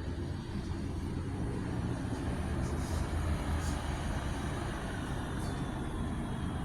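Diesel engine of a long-distance coach running with a steady low rumble, with a few faint short hisses higher up.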